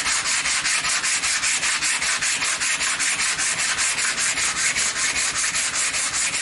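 Hand sanding of wood: abrasive paper rubbed rapidly back and forth, about five or six strokes a second, steady and even, stopping abruptly at the end.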